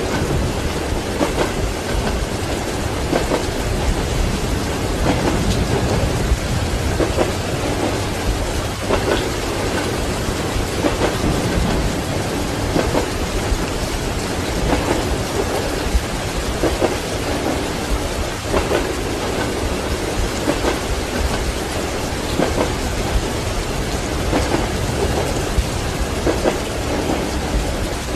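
Steady heavy rain with low rumbling thunder, over the soft, regular clatter of train wheels on rail joints.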